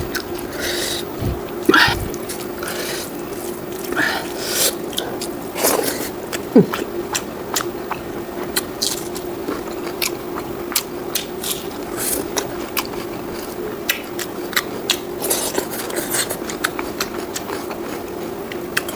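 Close-miked chewing and biting of fried pork and rice, with many short wet mouth clicks and smacks scattered through, over a steady low hum.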